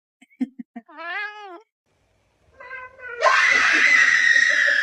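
A cat gives a short meow about a second in, then from about two and a half seconds a loud, harsh, drawn-out yowl that cuts off at the end.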